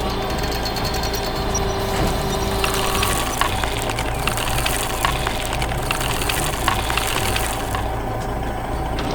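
Heavy construction-machine engine running steadily, with scattered mechanical clanks and knocks about a third of the way in and through the middle.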